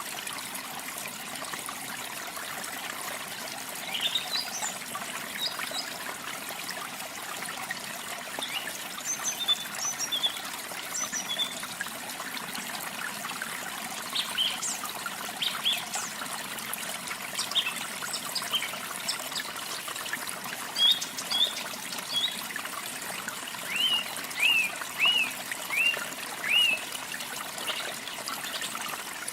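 Steady trickle and splash of falling water, with songbirds singing over it in short, high chirps and phrases; near the end one bird gives a run of five loud down-slurred notes.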